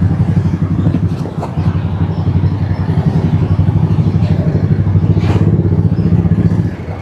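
Motorbike engine running under way, a steady low pulsing drone with road noise, heard from the rider's seat. The engine sound drops off shortly before the end, as if the throttle eases.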